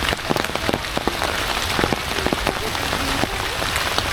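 Heavy rain falling steadily, with many sharp, irregular taps of single drops striking close by.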